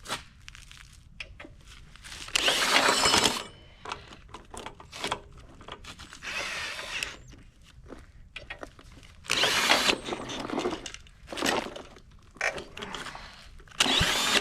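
Cordless drill driving a small diesel engine's crank through socket adapters, run in about five short bursts of a second or so each, trying to spin the engine over. The engine does not start: the drill cannot turn it fast enough.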